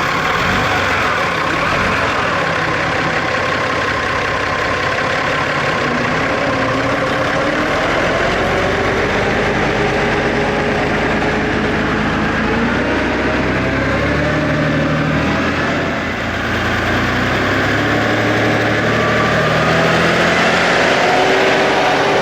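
Eicher tractor diesel engine running, its pitch drifting up and down as the engine speed changes.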